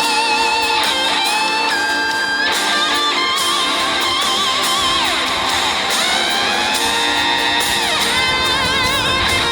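Instrumental break of a rock song: a lead electric guitar plays held notes with wavering vibrato and long sliding bends over a strummed guitar backing.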